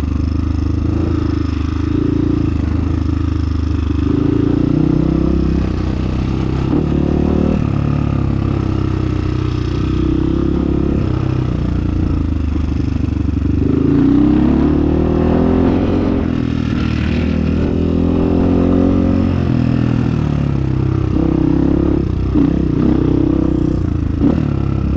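Trail motorcycle engine running under way, its pitch going up and down with the throttle, with a stretch of revving rises and falls around the middle.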